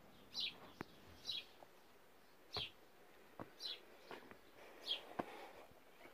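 A bird calling outdoors: short, sharp chirps that fall in pitch, repeated roughly once a second, with a few faint ticks in between.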